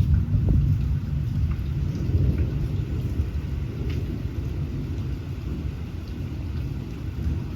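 Thunderstorm: a low rolling rumble of thunder that slowly fades, over steady rain with scattered drop ticks.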